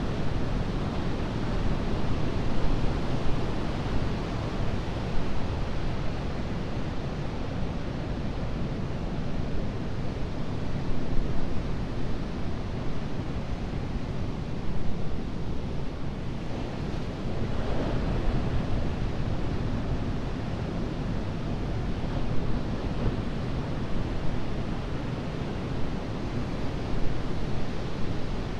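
Atlantic surf washing steadily onto a sandy beach, with a wave swelling a little louder a little past halfway. Low wind rumble on the microphone sits under it.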